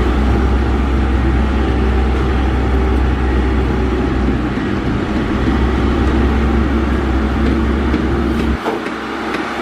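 Heavy diesel construction machinery running steadily with a deep low rumble, which drops away suddenly about a second before the end.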